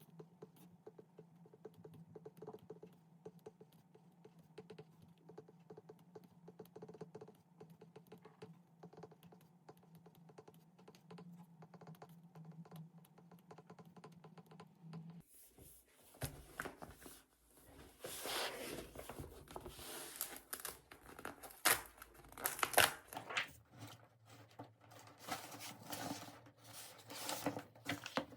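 Small rapid clicks over a steady low hum. After about 15 seconds they give way to louder rustling, crinkling and tearing, like packaging or paper being handled.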